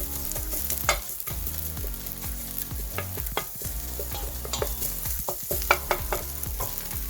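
Onions, garlic, ginger and tomato puree sizzling and frying in a pan while being stirred, with repeated short scrapes and clicks of the stirring utensil against the pan.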